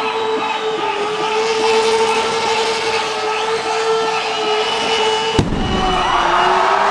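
A motorcycle engine held at high revs, giving a steady high note, with a single loud bang about five seconds in, after which the note drops a little.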